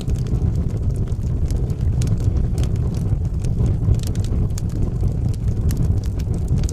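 Wood fire burning in a fireplace: a steady low rumble with frequent scattered crackles and pops.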